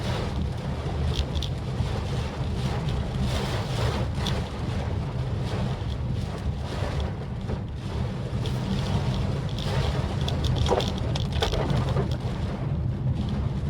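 Maruti Suzuki Swift Dzire driving on a wet road in the rain: a steady low road and engine rumble under an even hiss of tyre spray and rain, with brief louder splashes of hiss, most of them about ten seconds in.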